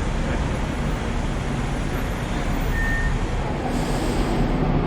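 Hong Kong tram running, heard from on board: a steady low rumble of the car rolling along its rails, with a short high hiss late on.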